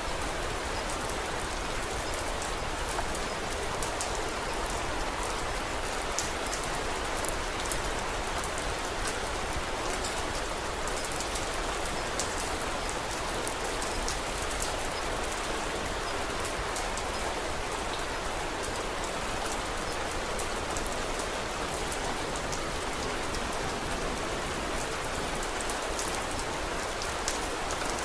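Steady rain falling, an even hiss with many small sharp drop ticks scattered throughout.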